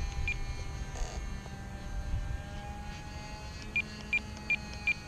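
Super Tigre .25 glow engine of an RC model airplane running in flight, a thin whine whose pitch drifts slightly, over a low rumble. A short high beep sounds about a third of a second in, and four more come near the end, about a third of a second apart.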